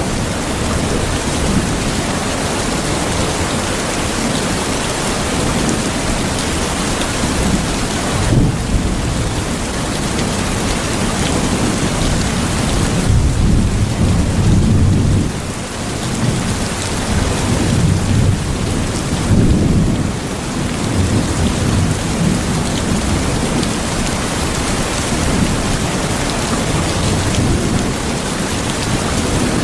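Steady heavy rain, with rolls of thunder rumbling low beneath it about eight seconds in, again for a few seconds in the middle, and once more shortly after.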